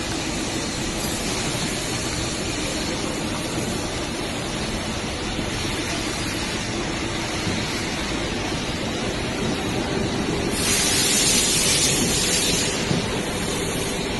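Automatic two-sided self-adhesive labelling machine for oil drums running with a steady mechanical noise, and a louder hiss lasting about two seconds near the end.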